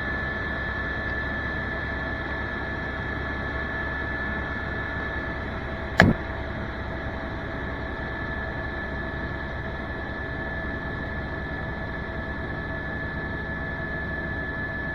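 Tour helicopter running steadily: a constant whine over a low drone, with one sharp click about six seconds in.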